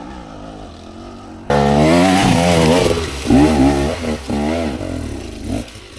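Dirt bike engine running steadily at first, then suddenly much louder about a second and a half in, revving up and down repeatedly on the trail before dropping back near the end.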